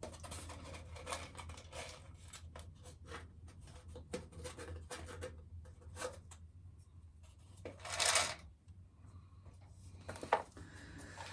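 Loose dry corn kernels being handled: faint scattered clicking and rustling, with one brief louder rushing sound about eight seconds in.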